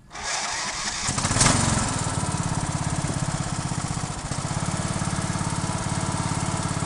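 Engine of a 2007 Craftsman 15.5 HP riding lawn mower running. It comes up strongly about a second in, is loudest briefly around a second and a half, then settles to a steady, even beat.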